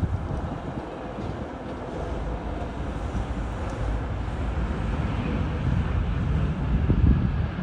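Wind buffeting the microphone outdoors: a gusty low rumble that grows louder toward the end, with a faint distant jet-engine hum underneath.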